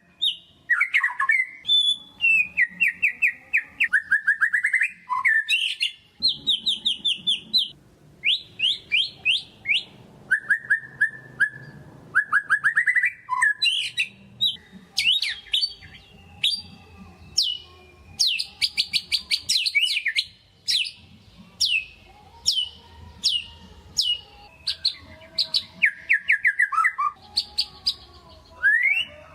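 White-rumped shama (murai batu) singing vigorously: phrase after phrase of rapidly repeated sharp notes, trills and quick rising and falling whistles, with short pauses between phrases.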